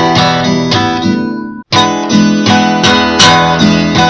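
Acoustic guitar strummed in a steady rhythm of chords as a song's closing accompaniment, with a brief sudden dropout about one and a half seconds in before the strumming picks up again.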